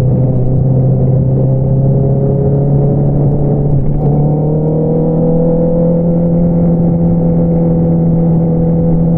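2022 Honda CBR650R's inline-four engine running under way through an Akrapovič single-outlet exhaust, a steady pitched drone. It dips briefly about four seconds in, then the pitch climbs slowly as the bike pulls.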